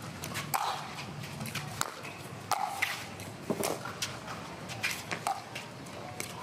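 Pickleball rally: a paddle striking the hollow plastic ball about five times, each a sharp pop roughly a second apart, with footsteps on the hard court between hits.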